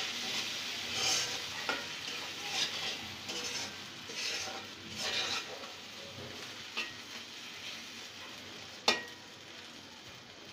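Spice paste frying in oil in a metal pot, sizzling while a utensil stirs and scrapes it in short strokes about once a second. The masala is being fried down with tomato sauce. There is a single sharp knock near the end, and the sizzle fades gradually.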